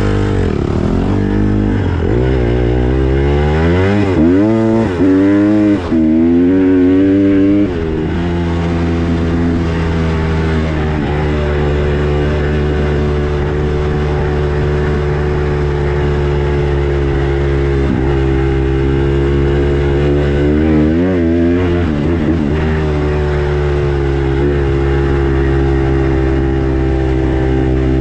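Honda CRF150R dirt bike's single-cylinder four-stroke engine under way. It revs up and down repeatedly over the first several seconds, then runs at a steady pitch. Another short rise and fall comes about three quarters of the way through.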